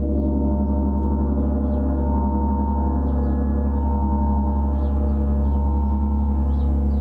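Gong sounding as a continuous shimmering drone: many overlapping steady tones over a deep low hum, with no distinct strike.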